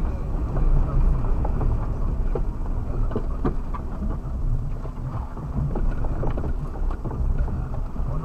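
Suzuki Jimny engine running steadily, heard from inside the cabin, with frequent small knocks and rattles from the vehicle driving over rough off-road ground.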